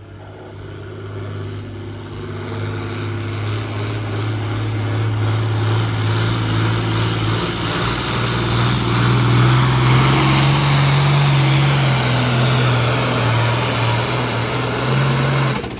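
Diesel pulling vehicle's engine running flat out under load as it drags a weight-transfer sled, getting louder through the run with a high turbo whine that slowly rises in pitch. It cuts off abruptly near the end as the driver lets off at the end of the pull, short of the leading distance.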